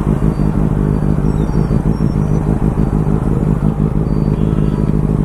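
Superbike engine running at a steady pitch, with no revving.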